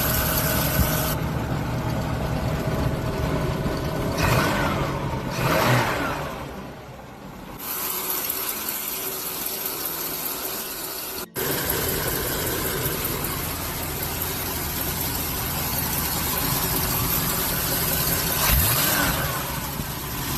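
Car engine idling steadily, with an abrupt cut about eleven seconds in.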